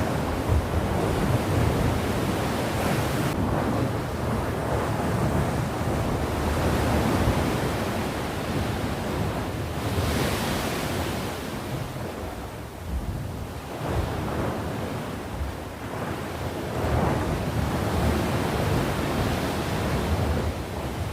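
Sea waves breaking and washing on the shore in a continuous rush, with slow swells and one stronger surge about halfway through.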